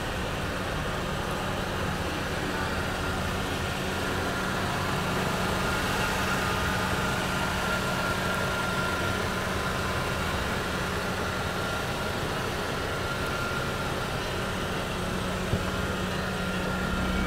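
Mercedes-Benz SLK Kompressor's supercharged four-cylinder petrol engine idling steadily.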